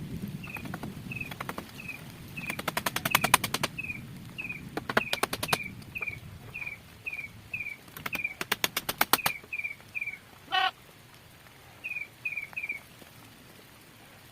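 A bird chirping, one short call about twice a second, with a pause near the end and one longer warbling call around two-thirds of the way through. Three bursts of rapid, sharp rattling clicks, each about a second long, come louder over it.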